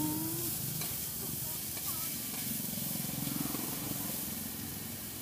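Noodles frying in oil on a wide, shallow steel pan, a steady sizzle, stirred with a spatula.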